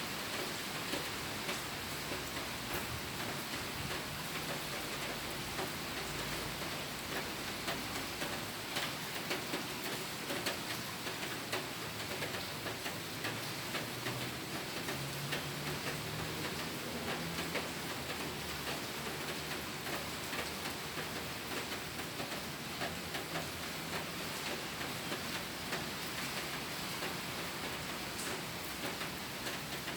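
Steady rain falling, with many small drops tapping on a surface.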